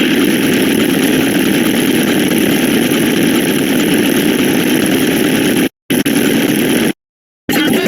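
Dense, loud wall of layered sound effects that runs steadily like an engine, cut off abruptly twice by short dead-silent gaps in the second half.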